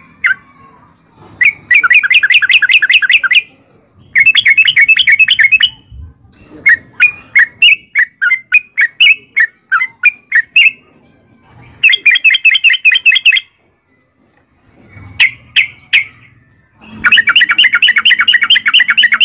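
Yellow-vented bulbul (trucukan) song: loud bursts of fast chattering rolls lasting one to two seconds, alternating with strings of separate bright chirps, with short pauses between phrases, including a longer one about two-thirds of the way through.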